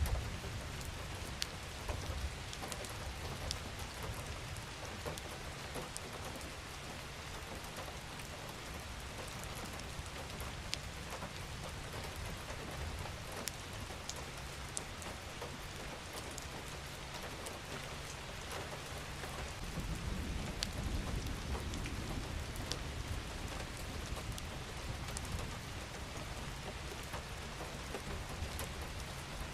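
Steady rain falling on a surface, a dense even hiss with scattered sharper drop ticks. A low rumble swells about two-thirds of the way in and fades over a few seconds.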